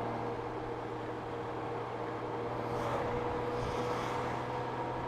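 Honda Gold Wing motorcycle cruising at moderate speed on a wet road: a steady engine hum under road and wind noise, with two soft swishes about three and four seconds in.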